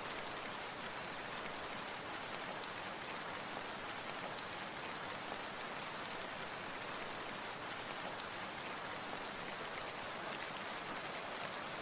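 Steady rain falling, an even hiss of many small drops with no let-up.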